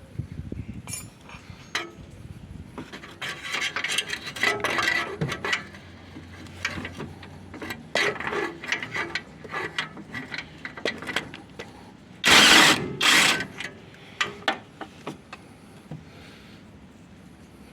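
Hand tools working on an engine: scattered metallic clicks and clinks, with stretches of ratcheting, and two loud short bursts of noise a little past the middle.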